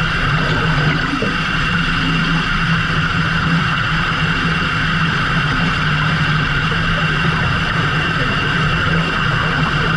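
A fishing boat's engine and deck machinery running steadily, with a constant hum and a steady higher whine.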